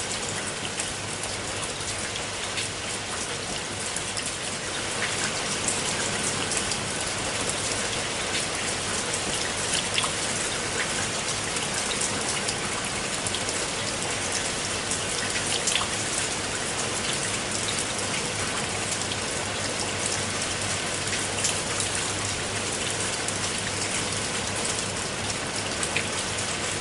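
Steady rain falling on water, with a constant hiss and many fine drop patters.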